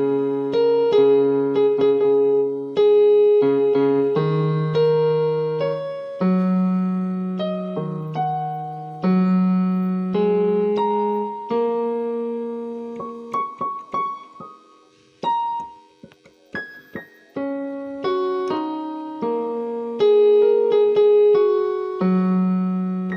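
Background piano music: slow, gentle chords with a melody over them. It thins to a few soft, scattered notes around the middle, then the fuller chords return.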